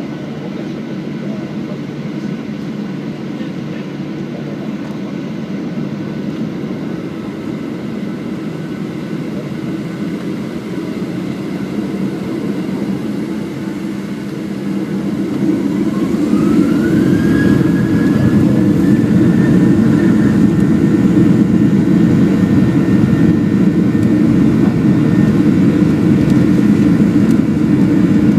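Boeing 737-800's CFM56-7B jet engines running steadily, then spooling up about halfway through as they are brought up to takeoff thrust: a whine rising in pitch, and the engine noise growing louder and holding there.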